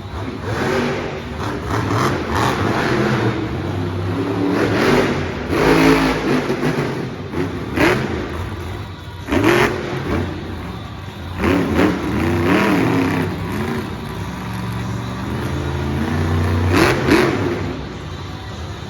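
Monster truck engine revving hard, its pitch climbing and falling over and over, with a few sharp bangs.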